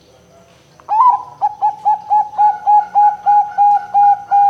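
Zebra dove (perkutut) cooing: about a second in, a loud rapid run of short, evenly spaced coo notes begins, about a dozen at roughly three to four a second, all on nearly the same pitch.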